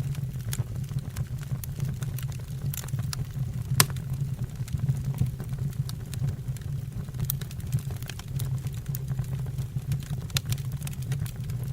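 Wood fire burning in a fireplace: a steady low rumble of flame with frequent small crackles and pops from the logs, and one sharper crack about four seconds in.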